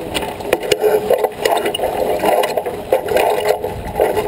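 Aboard a J24 sailboat under way: a steady rushing noise with many scraping and rattling knocks scattered through it.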